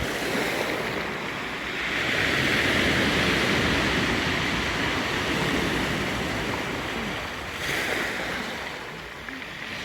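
Black Sea surf breaking and washing on the beach, swelling in waves, with wind on the microphone.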